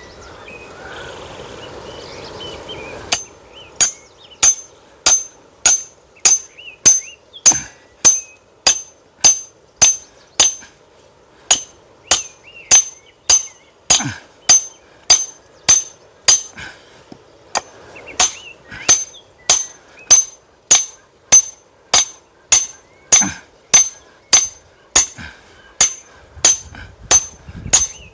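Firewood being split by hand: a fast, even run of strikes, a little under two a second, each with a short metallic ring. The strikes start about three seconds in.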